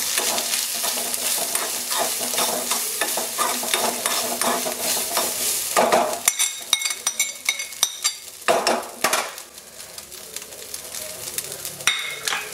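Grated coconut with mustard seeds, dried red chillies and curry leaves sizzling in hot coconut oil in a metal kadai, stirred and scraped around the pan with a metal spoon. This is the coconut being fried brown for the tempering. The sizzle dies down for a couple of seconds near the end, then picks up again.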